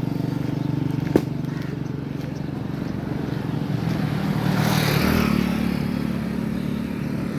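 A motor vehicle's engine running at a steady pitch while travelling along a road, with a rushing swell that builds to a peak about five seconds in and fades, and a short click about a second in.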